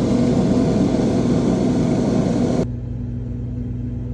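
Old refrigerator running after its defrost timer was advanced: the compressor and fan give a steady low hum. A loud rushing noise lies over the hum and cuts off abruptly about two and a half seconds in.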